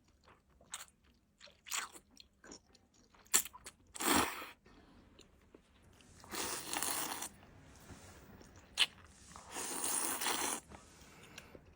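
Close-miked eating: small mouth clicks and chewing, a sharp crunching bite about four seconds in, and two longer, louder bursts of eating noise near the middle and near the end.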